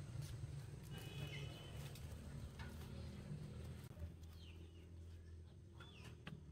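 Faint bird calls, a few short chirps, over a steady low hum.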